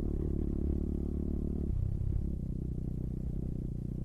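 SSR 140 pit bike's air-cooled single-cylinder four-stroke engine running steadily under way, its note shifting briefly a little under two seconds in.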